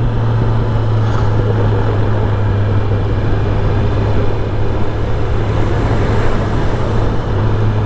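Kawasaki ZX-10R's inline-four engine running at a steady pitch while riding, with dense wind and road noise over the microphone.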